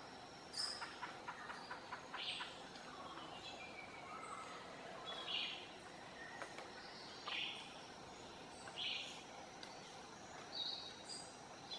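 Forest birds calling: short high-pitched calls repeat every second or two over a steady background hiss, with a long falling whistle a few seconds in.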